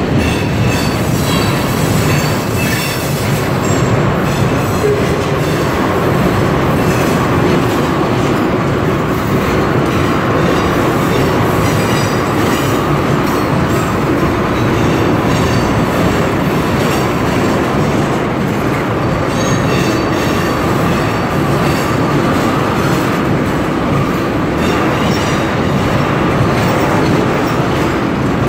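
Tank cars of a long freight train rolling past close by: a steady, loud rumble of steel wheels on rail, with a faint high wheel squeal in the second half.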